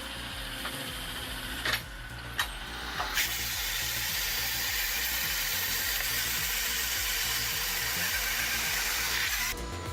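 Machinery running with a steady low rumble and a few sharp clicks, then a loud steady hiss from about three seconds in that stops abruptly near the end.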